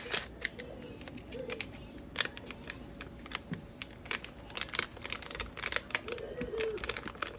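Paper packaging being handled: irregular light clicking, crinkling and tearing as rice boxes and their seasoning packets are opened.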